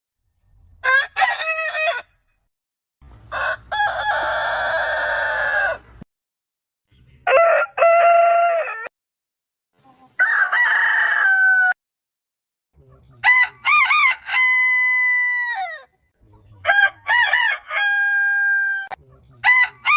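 Roosters crowing, about six separate crows one after another, each one to three seconds long, several ending in a long drawn-out held note. The crows are cut apart by abrupt total silences and differ in pitch and shape, like different birds spliced together.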